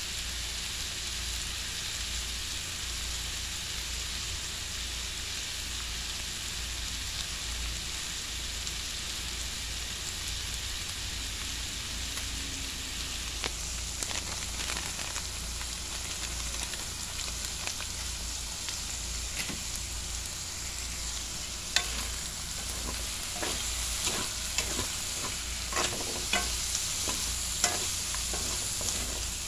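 Sliced sausage, chicken, onion and chili peppers sizzling in oil in a metal pot, a steady hiss. From about halfway in, a utensil stirs and scrapes the food against the pot, the clicks growing more frequent and louder near the end.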